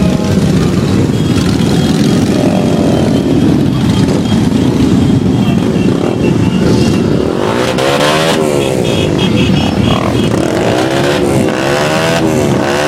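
Many motorcycles riding past in a large group, engines running steadily, with single bikes passing close about halfway through and again near the end, their engine pitch sweeping up and down as they go by. A short run of high beeps sounds around the middle.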